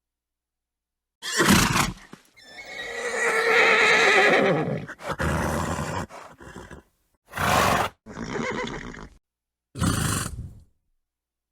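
Horse whinnying and snorting. There is a short snort, then one long pitched whinny of about two and a half seconds, then several more short blows and snorts, each separated by dead silence.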